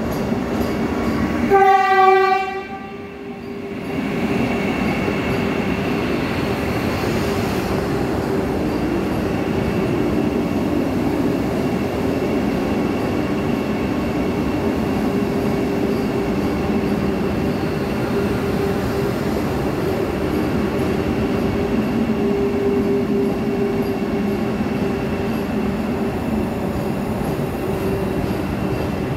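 Vande Bharat Express electric trainset running through a station at speed: one short horn blast about two seconds in, then the steady running noise of the coaches passing close by, with a low steady hum.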